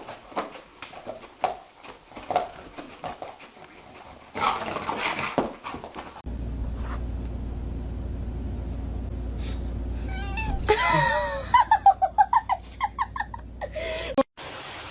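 Scattered light taps and knocks, then a steady low hum, then a pet animal crying out in a quick run of short, wavering high calls near the end.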